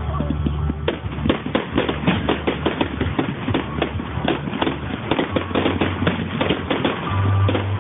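Fireworks display crackling and popping, with a dense run of sharp bangs several times a second, recorded through an old phone's microphone.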